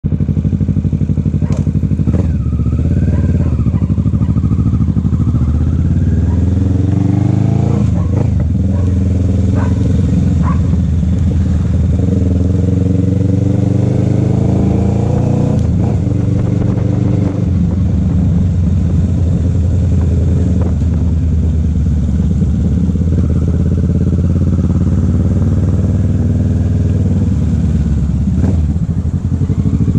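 Motorcycle engine running under way. Its pitch climbs as it accelerates, about a quarter of the way in and again about halfway, then it settles to a steady pace. A few short clicks are heard along the way.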